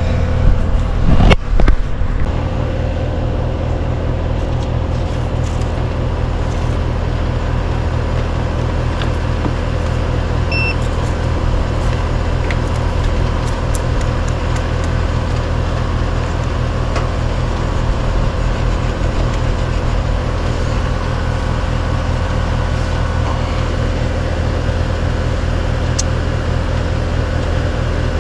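Outdoor air-conditioning/heat-pump condensing unit running steadily, its compressor and condenser fan giving a constant low hum with a rushing airflow on top; the unit is running again on a newly replaced run capacitor. A few sharp knocks and clatters near the start.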